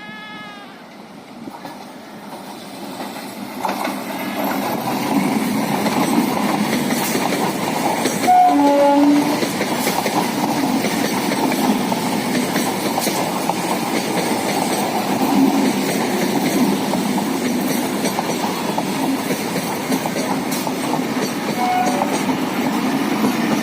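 A Sealdah Division electric local passenger train (EMU) coming closer and running past, its rumble and wheel clatter growing over the first few seconds and then staying loud. A short horn blast sounds about eight seconds in.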